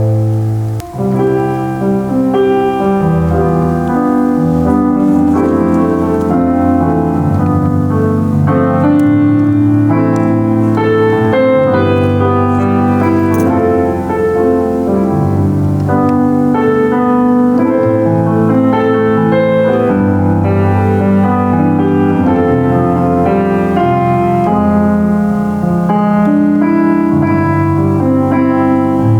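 Solo piano playing in full chords, with bass notes held under the melody and a brief break about a second in.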